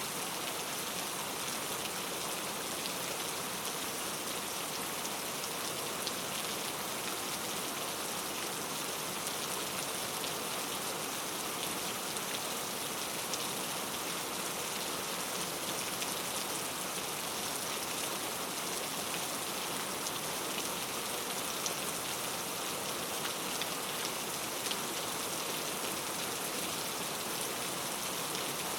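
Steady heavy rain falling through forest, a dense even hiss with many small drop ticks.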